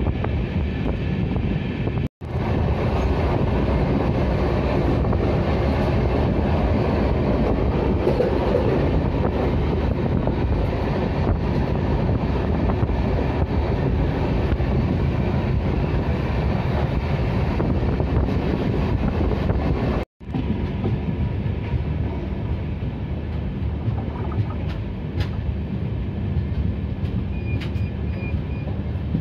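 Steady running noise and wind of a moving passenger train, the 12618 Mangla Express, heard from an open coach window as it runs along. The sound cuts out completely twice, briefly, where clips are joined.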